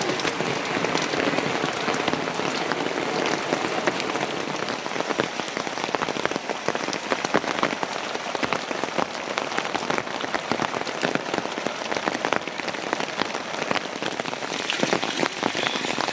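Heavy rain falling steadily, a dense hiss made of many separate drop hits on a hard surface.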